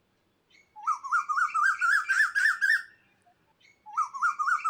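Cuckoo calling: two runs of quick repeated notes, each run climbing gradually in pitch, the second starting about a second after the first ends.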